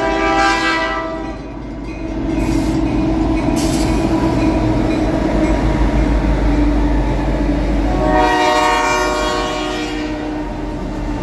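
Reading & Northern 5049 locomotive sounding its multi-tone horn twice: a blast that ends about a second in, then a second one starting around eight seconds in. A steady low rumble of the passing train runs beneath and between the blasts.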